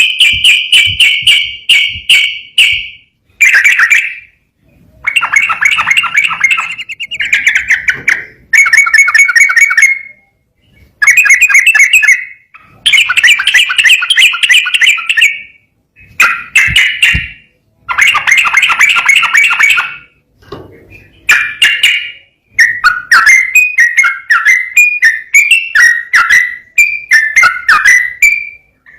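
Yellow-vented bulbul (trucukan) singing loudly in its rapid continuous 'ropel' style: bursts of fast repeated chattering notes, each a second to a few seconds long, with short pauses between them, turning into quicker, choppier up-and-down phrases over the last few seconds.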